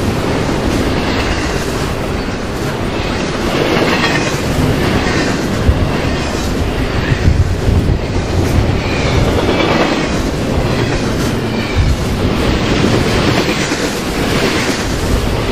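Train rolling past close by: a steady rumble of wheels on rail with repeated clickety-clack as the wheels cross rail joints.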